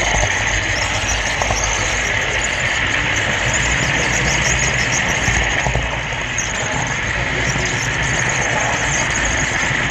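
Steady whirring rumble of a model train running along the track, picked up close up from the camera car riding on the rails.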